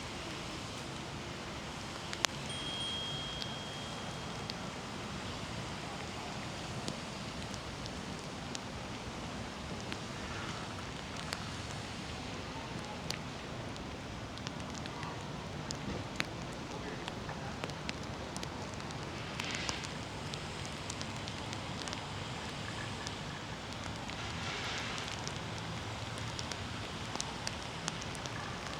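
Steady rain falling, a constant hiss with many sharp ticks of individual drops hitting nearby surfaces. A brief high steady tone sounds about two and a half seconds in.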